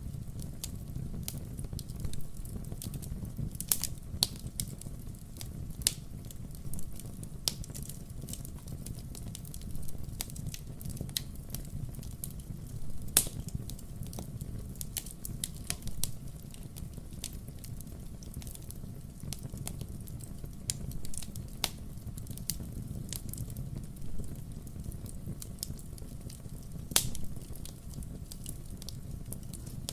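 Burning firewood crackling: irregular sharp pops and snaps over a low steady rumble, with two louder pops about 13 and 27 seconds in.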